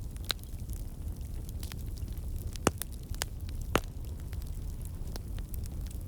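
Fire burning in a fireplace: a steady low rumble of flames with scattered sharp crackles and pops, two louder pops a little over a second apart near the middle.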